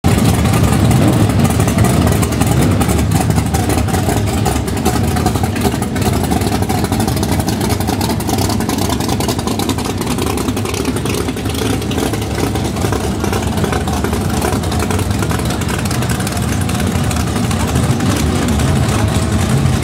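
Several drag-race car engines idling loudly as the cars roll slowly by in a line, a steady, deep exhaust sound.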